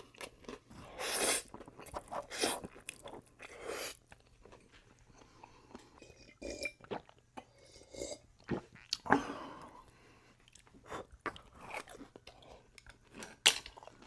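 A person eating close to the microphone: crunching bites and chewing in irregular bursts, typical of mukbang eating sounds.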